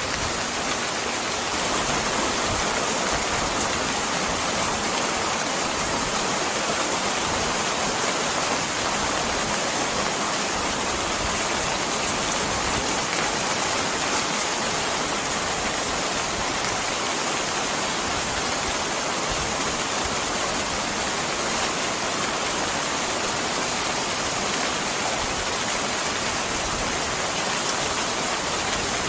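Steady rain falling, an even hiss that gets slightly louder about a second and a half in.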